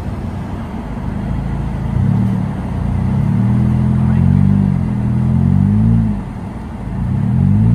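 Car engine revving in reverse while stuck in snow. The revs climb about two seconds in, waver and fall away, then rise again near the end, over a steady low rumble.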